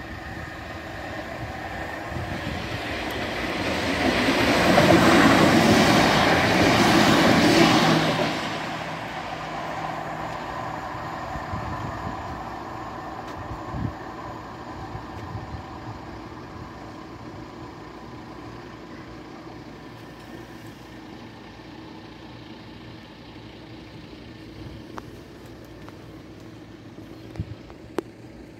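Electric passenger train passing over a level crossing: its running noise builds up, is loudest from about four to eight seconds in, then fades away.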